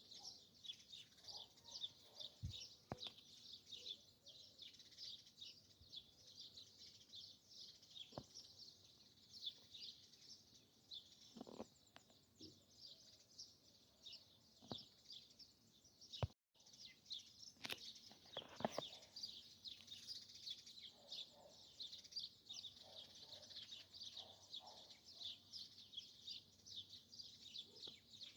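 Faint, dense chorus of small birds chirping rapidly and continuously, with a few sharp clicks and lower calls now and then. The sound drops out briefly about sixteen seconds in.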